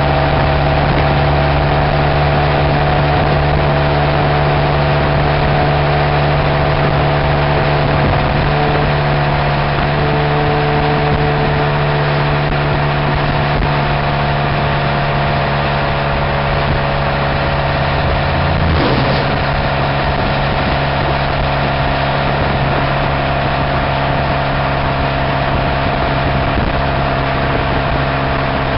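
Exhaust note of a 2002 Pontiac Grand Am's Ecotec four-cylinder, open without catalytic converter or resonator, running at a steady engine speed with a brief change in note about two-thirds of the way through. Heard with the microphone right at the tailpipe.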